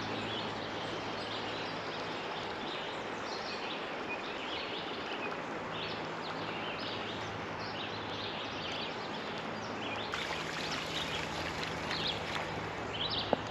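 A creek's water running steadily, with short, scattered higher-pitched sounds over it.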